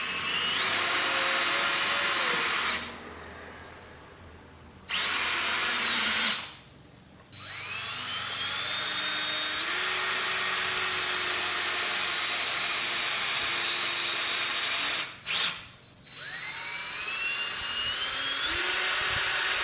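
Power drill driving screws through a 2x4 into a wooden stump: the motor whines up in pitch and runs in four separate bursts, the longest about seven seconds.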